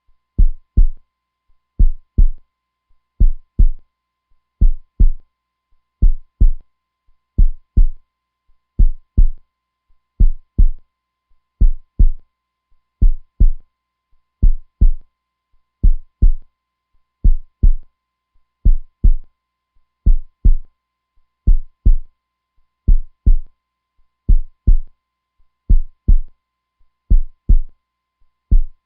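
Heartbeat sound: a steady, slow lub-dub, each beat a pair of low thumps, repeating about once every one and a half seconds.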